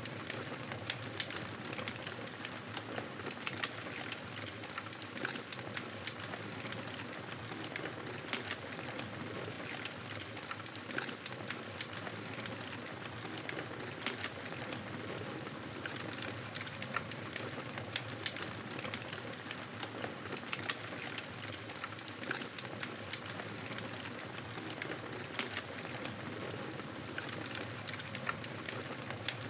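Wood fire crackling steadily: a soft hiss dotted with many small, sharp pops.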